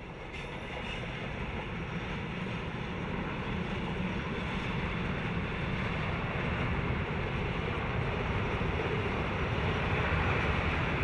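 Ex-DR V100 diesel-hydraulic locomotive running with its train, a steady rumble that grows gradually louder as it approaches.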